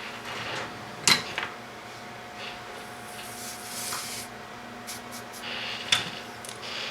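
Handling noise from bench work on wiring: two sharp clicks about five seconds apart, with light rubbing and rustling between them, over a faint steady electrical hum.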